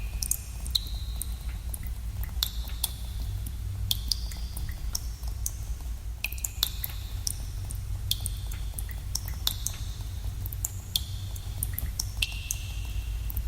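Water drops falling at irregular intervals in a cave, roughly one a second. Each drop is a sharp plink with a short ringing tone, over a steady low rumble.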